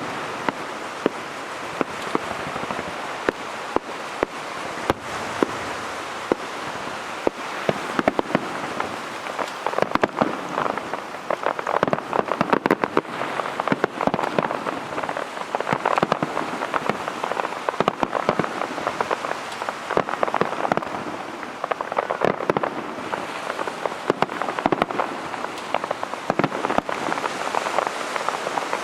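Aerial fireworks: a dense crackling sizzle of crackle stars, with sharp bangs of shells bursting about once a second.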